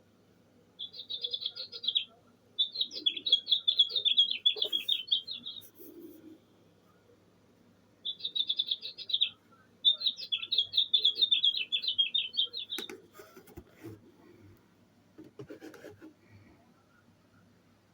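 Bird-sound clock playing a recorded songbird call: a short trilled phrase followed by a longer rapid trill, the same sequence played twice. A few sharp clicks and knocks follow near the end.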